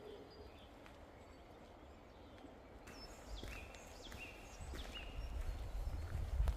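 Small birds chirping and calling in short, high notes, some gliding in pitch. A low rumble builds and grows louder from about halfway through.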